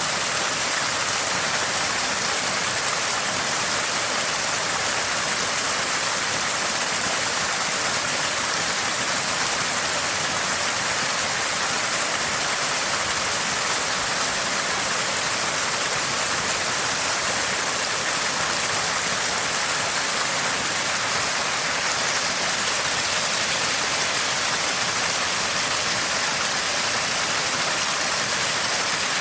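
Water spouting from a small spring, a constant gurgle with a steady, hissing splash that does not change.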